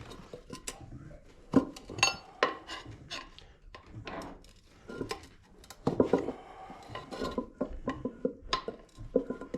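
Tire irons clinking, knocking and scraping against a Honda Grom's wheel rim as the first bead of a tubeless tire is pried on, in irregular clanks; one clank about two seconds in rings out.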